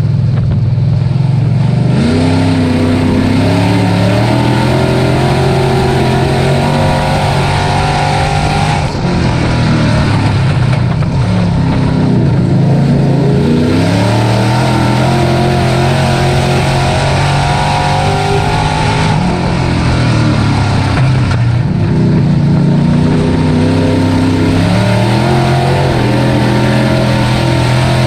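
Dirt-track race truck engine at full race pace, its pitch climbing as it accelerates and dropping back as it lifts off, several times over, like laps of a short oval.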